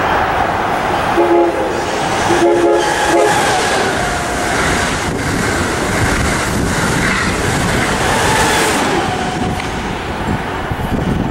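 Passing train with a locomotive air horn sounding a chord: one short blast about a second in, then a longer one, over the steady rumble and rail noise of the train.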